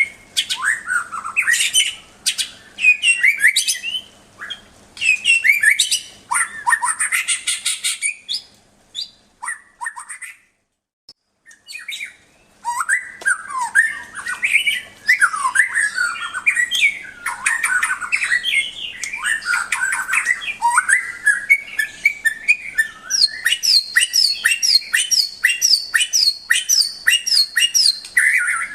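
White-rumped shama singing a long, varied song of whistled and chattering phrases, breaking off for a couple of seconds about ten seconds in. Near the end it delivers a fast run of short, evenly repeated high notes.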